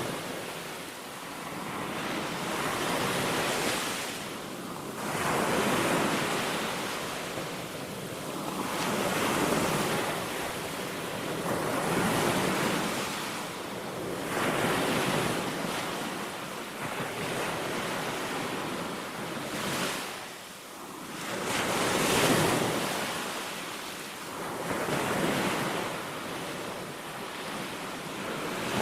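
Sea waves breaking on a sandy beach, the surf swelling and falling back every two to three seconds, with some wind on the microphone.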